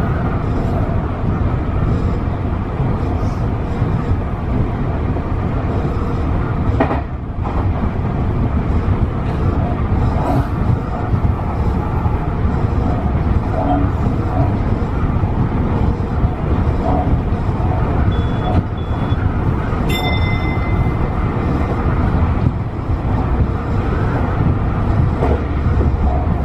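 Steady running noise of a Tobu 50090-series electric train at speed, with continuous wheel-on-rail rumble. It dips briefly about a quarter of the way through. A few short high beeps come about two-thirds of the way in.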